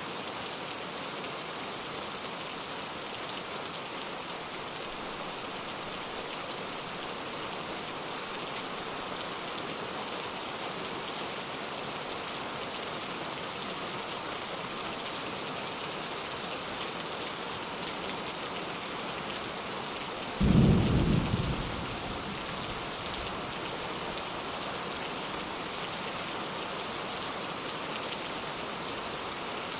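Steady rain falling, with one short, loud, deep clap of thunder about two-thirds of the way through that dies away within a couple of seconds.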